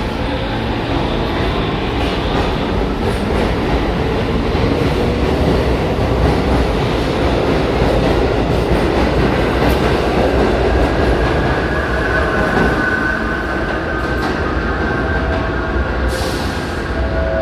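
New York City subway train running loudly through the station, with a steady low rumble and wheel clatter. A high steady squeal comes in about twelve seconds in.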